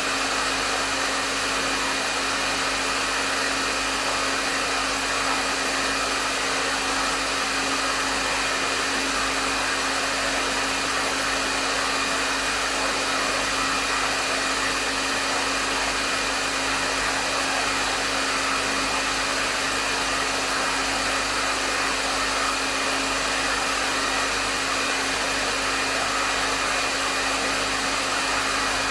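Hair dryer running steadily: an even rush of airflow noise with a faint steady hum of the motor beneath it.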